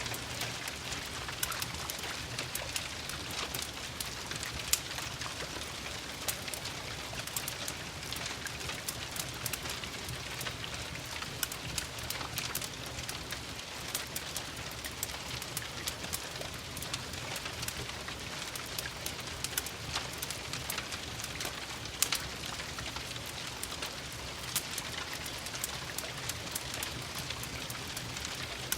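Steady gentle rain, an even hiss dense with small drop ticks, mixed with the crackle of a wood fireplace; a couple of sharper pops stand out, about five seconds in and again past the twenty-second mark.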